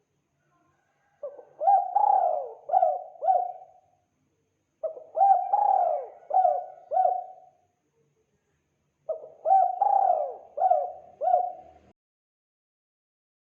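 Spotted dove (tekukur) cooing: three phrases of about five coos each, separated by short pauses of about a second.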